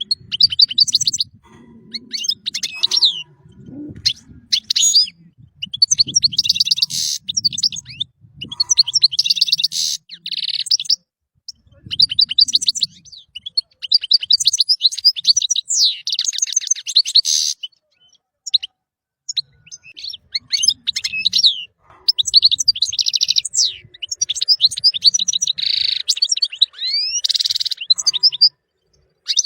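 European goldfinch singing: bursts of rapid, twittering phrases with quick rising and falling notes, broken by short pauses.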